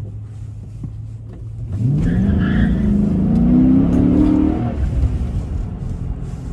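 2012 Dodge Charger R/T's 5.7-litre Hemi V8 on its stock exhaust, running steadily, then pulled hard under acceleration for about three seconds, its note climbing steadily before easing off as the throttle is lifted.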